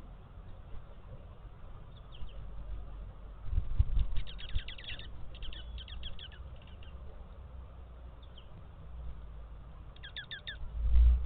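Small birds at a feeder calling in quick bursts of short, downward-sliding notes, with several rapid series about a third of the way in and another near the end. Low thuds and rumbles also sound, the loudest just before the end.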